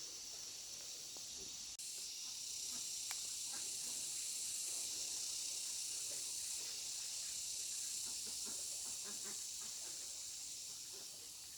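Steady high-pitched insect chorus buzzing, with faint scattered rustles and small clicks beneath it.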